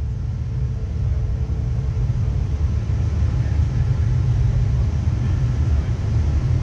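Cabin noise inside a Boeing 737-300 around landing: a heavy low rumble that grows steadily louder, with a faint steady tone that fades out about halfway through.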